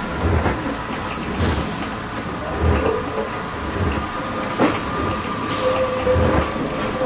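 Cab interior of a British Rail Class 144 Pacer, a four-wheeled diesel railbus, running along the line. Low thumps come about once a second from the wheels over the rail joints, over a steady running noise with a faint whine. Two short hisses come through, the first about a second and a half in and the second near the end.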